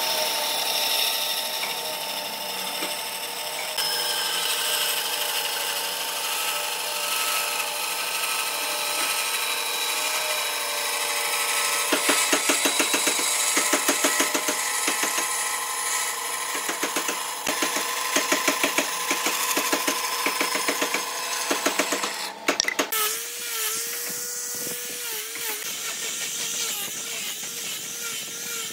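Power tools working wood: a steady motor whine with rasping noise, with rapid, evenly spaced strokes through the middle. About three-quarters of the way through the sound changes abruptly to a different, wavering motor note.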